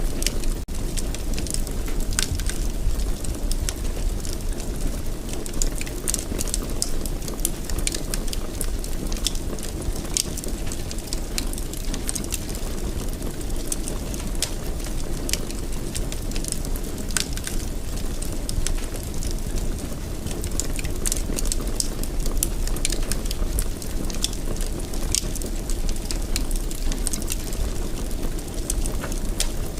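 Wood fire in a fireplace burning, with many scattered sharp crackles and pops over a steady low rumble of the flames.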